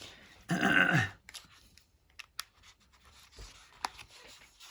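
Pen scratching lightly on paper, with a few small sharp clicks and taps.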